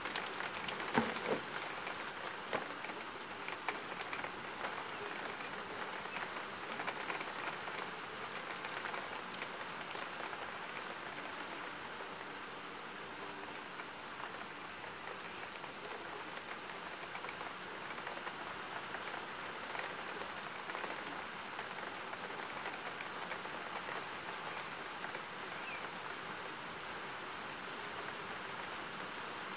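Steady rain from a thunderstorm, with nearby drops ticking sharply for the first several seconds and one louder tick about a second in.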